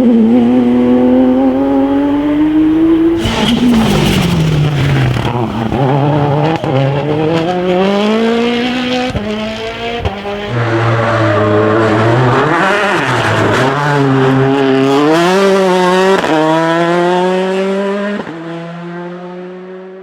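A World Rally Car's turbocharged four-cylinder engine revs hard, rising and dropping in pitch through repeated gear changes and lifts. Near the end it fades away as the car drives off.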